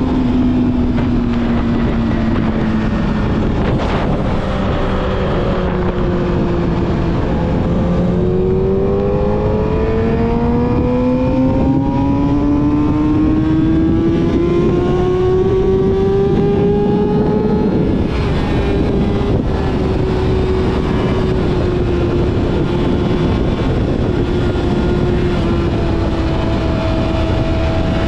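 Yamaha YZF-R6 inline-four with a full-system exhaust, under way: the engine note eases down for several seconds, then climbs steadily for about ten seconds as the bike accelerates. There is a brief dip about two-thirds of the way in, after which it holds fairly steady and slowly eases off, over a constant rush of wind noise.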